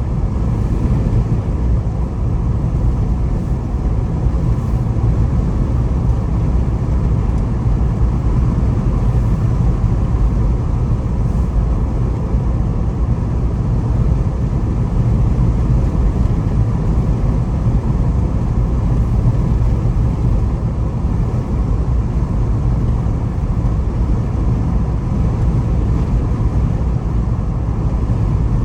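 Steady engine and road noise heard inside a Jeep's cabin while driving, a low rumble that holds an even level throughout.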